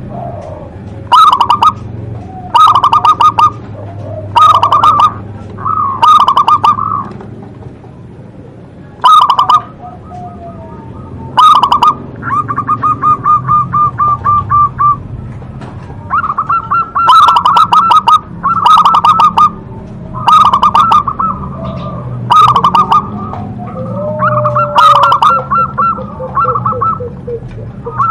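Zebra dove (perkutut) calling over and over: a dozen or so loud phrases of rapid staccato cooing notes, a second or two apart, with one longer run of notes around the middle.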